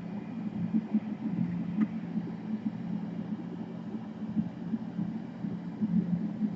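Low steady background hum, with a faint click about two seconds in.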